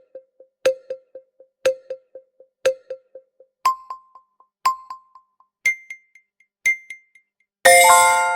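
Quiz countdown timer sound effect: a short bell-like note once a second, each trailed by quick fading echoes, stepping up in pitch twice as the time runs down. It ends in a bright ringing chime chord that marks time up.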